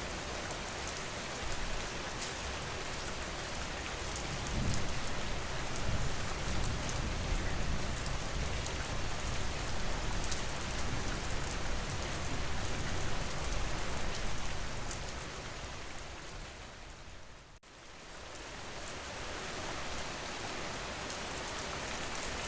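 Steady rain falling, an even hiss of drops. About seventeen seconds in it fades down almost to nothing for a moment, then swells back to its steady level.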